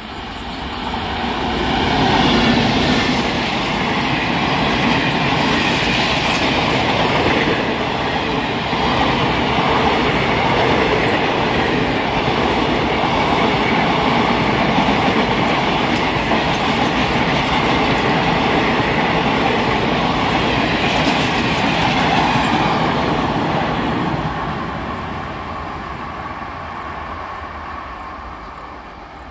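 An Indian Railways passenger train hauled by an electric locomotive runs past, its wheels rolling on the rails. The sound builds over the first couple of seconds, holds steady and loud, then fades away over the last five seconds as the train moves off.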